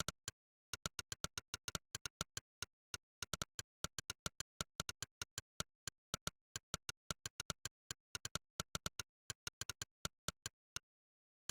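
Monkeytype's 'click' keypress sound effect, one short, sharp click per keystroke. The clicks come at an uneven typing pace of several a second, with brief pauses between words and dead silence between clicks. They stop shortly before the end.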